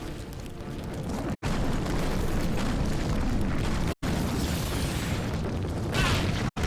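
Cartoon sound effects of a cave collapsing: a continuous heavy low rumble of crashing rock, broken by brief dropouts at edit cuts.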